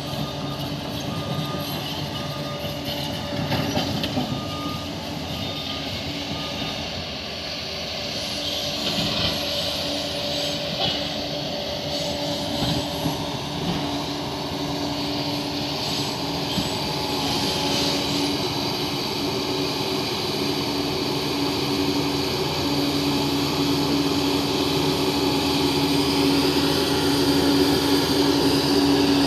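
Crawler bulldozer's diesel engine running steadily as it works, with a reversing alarm beeping at an even pace for the first few seconds while the machine backs up.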